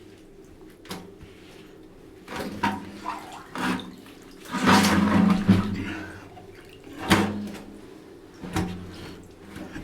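Wet cleanup in a cramped storm shelter: irregular splashing and sloshing of water with knocks and scrapes, the loudest a burst of splashing lasting about a second, about five seconds in.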